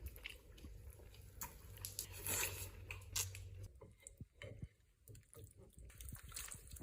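Faint chewing and biting of juicy food, with small wet mouth clicks scattered through.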